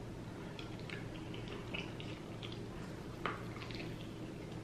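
Soft, wet chewing and mouth clicks from someone eating rotisserie chicken, with one sharper click a little over three seconds in.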